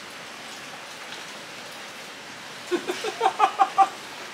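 Steady rain falling. Near the end comes a quick run of about seven short pitched sounds, each louder than the rain.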